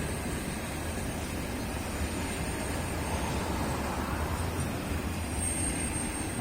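Steady low rumble of a train running through the station, with no wheel clicks standing out.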